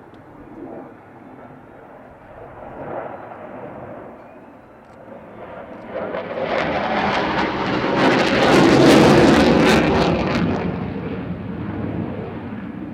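Twin RB199 turbofan engines of a Panavia Tornado IDS jet flying past. A low rumble for the first few seconds swells from about six seconds in to a loud, crackling peak around nine seconds, then eases off.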